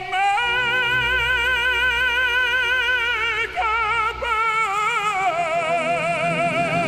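Music: an operatic voice sings long held notes with wide vibrato, stepping down to a lower sustained note about five seconds in.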